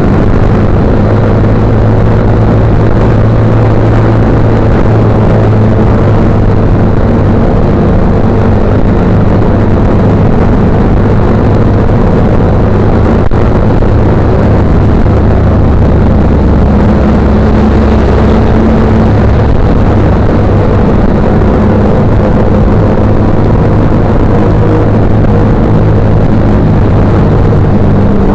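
Motorcycle engine running steadily at a constant pace, loud and close, with a slight change in pitch partway through.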